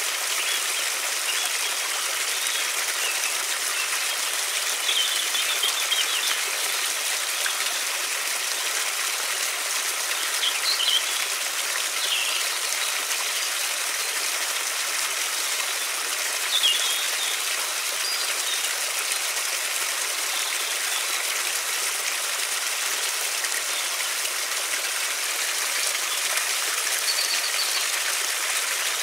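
River water flowing steadily, with a few short bird chirps scattered through it.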